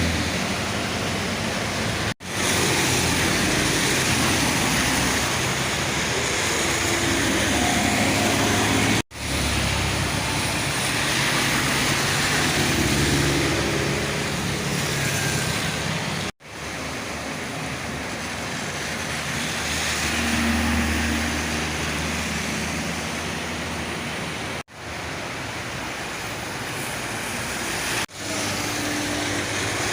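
Heavy rain hissing, with vehicles passing on the wet road and their tyres and engines mixed into the noise. The sound cuts out sharply five times where short clips are joined.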